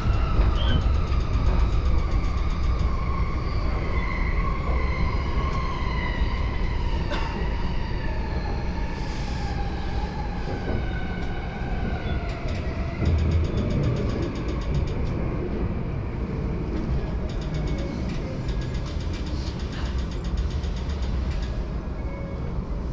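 JR Yamanote Line electric train heard from inside the car, its motors whining in a tone that falls steadily in pitch over the rolling rumble as the train brakes toward a station.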